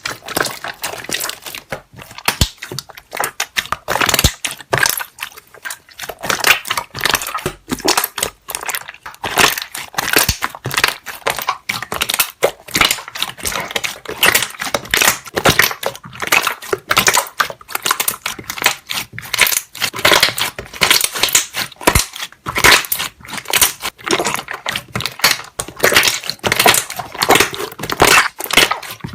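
Slime being squeezed and kneaded by hand, with trapped air bubbles popping in a dense, continuous run of small wet clicks and crackles.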